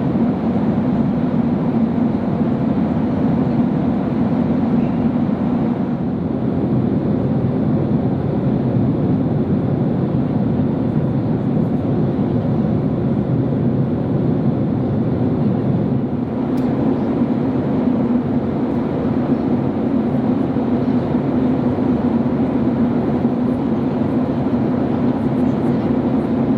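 Steady roar of a Boeing 767-300 in flight, heard inside the passenger cabin: engine and airflow noise, deep and even throughout.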